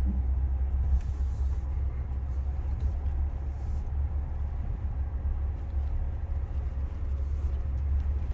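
A truck driving slowly over a dirt trail, heard from inside the cab: a steady low engine and road rumble.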